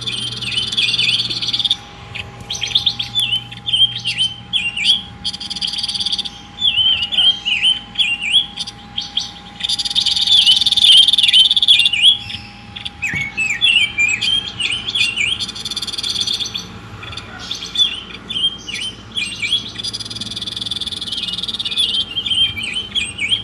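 A songbird singing vigorously in rapid chattering phrases of quick sweeping chirps, each burst a second or two long with short pauses between. A faint steady hum sits underneath for the first half or so.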